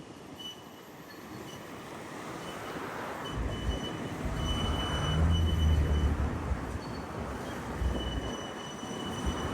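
71-931M Vityaz-M tram running on rails: a rolling rumble that builds from about three seconds in, with a steady high-pitched squeal from the wheels coming and going.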